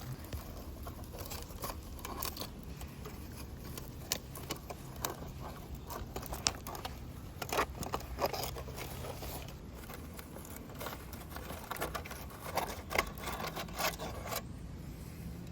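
Irregular clicks, taps and scrapes, as of objects being handled, over a faint low hum that fades out about two-thirds of the way through.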